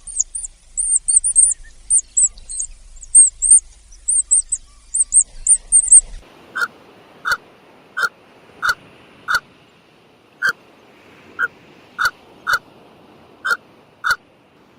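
Small birds chirping rapidly with very high, thin notes. About six seconds in, this cuts to a different sound: short single calls repeated at a steady pace, roughly one a second.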